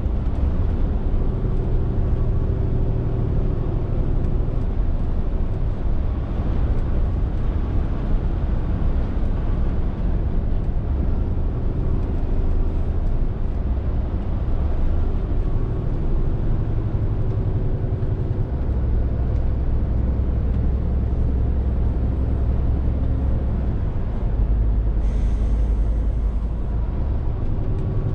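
Scania R450 lorry's inline-six diesel running steadily under way, a low drone that shifts as the revs change, with a short hiss near the end.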